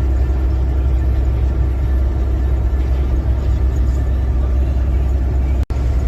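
Semi truck under way, a steady low engine and road drone with no rise or fall, briefly cutting out near the end.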